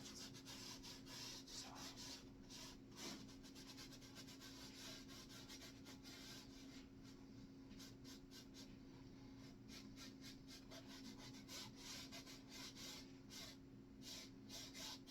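Faint, irregular strokes of a paintbrush rubbing paint onto a canvas, over a steady low hum.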